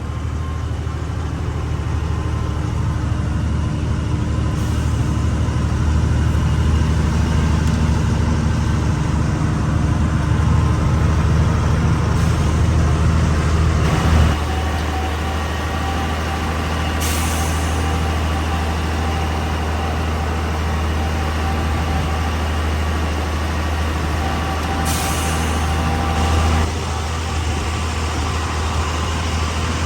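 Truck engine running steadily while driving, its note shifting abruptly about halfway through and again near the end. Two short hisses of air come in between.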